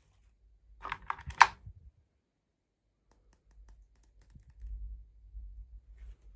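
A quick cluster of sharp plastic clicks and taps about a second in, the last one loudest, as small plastic toy pieces are handled, followed by faint low handling rumble.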